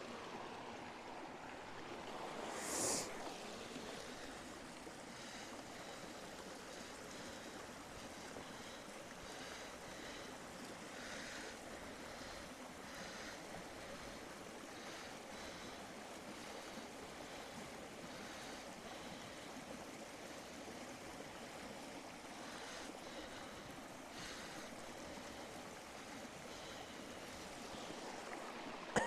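Small campfire of damp sticks just catching: a steady soft hiss with faint scattered crackles, and one brief louder rush about three seconds in.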